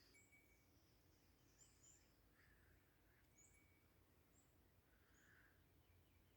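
Near silence with faint, scattered bird chirps and short high whistles.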